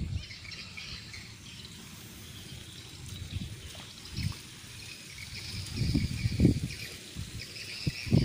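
Swiftlets calling: a dense, high twittering chatter that carries on throughout, with a few low thumps about six seconds in.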